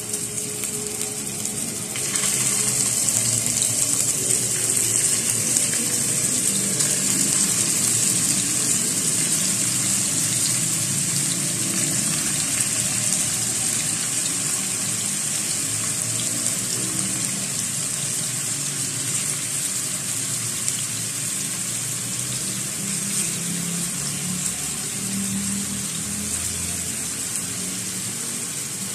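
Minced-meat gola kababs sizzling in hot ghee in a pan as they are laid in one by one: a steady frying hiss that grows louder about two seconds in.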